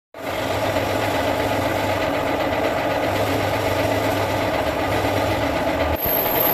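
Engine idling steadily, with a brief break about six seconds in.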